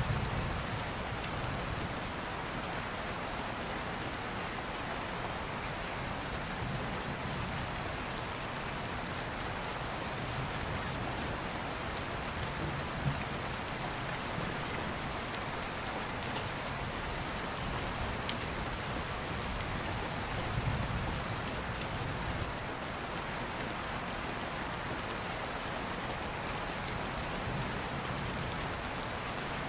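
Steady rain falling, with a few sharp crackles from an open fire and soft low rumbles of distant thunder near the start and about twenty seconds in.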